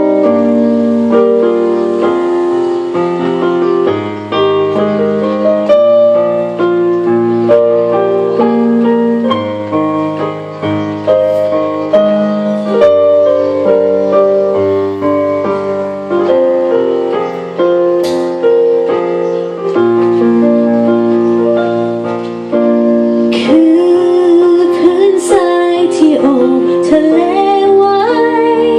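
Piano playing the instrumental interlude of a slow ballad, chord after chord. A woman's singing voice comes back in about five seconds before the end, gliding over the piano.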